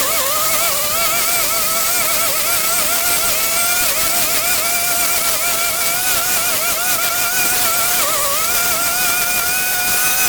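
Small petrol engine of a garden power tool running steadily at high speed, its whine wavering slightly in pitch.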